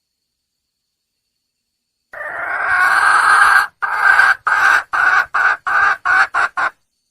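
Red junglefowl hen calling for a mate: one long call that grows louder about two seconds in, then a run of about eight short calls that come quicker toward the end.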